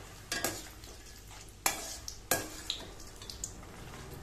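Urad dal, chana dal and peanuts sizzling in hot oil in a stainless steel kadai, stirred with a perforated steel ladle that knocks against the pan three times.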